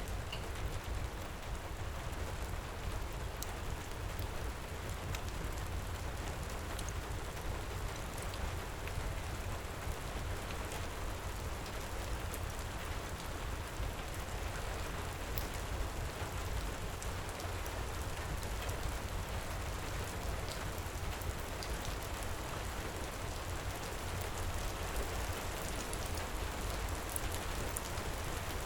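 Heavy rain pouring steadily with a low rumble underneath, and scattered faint crackles from a wood fire.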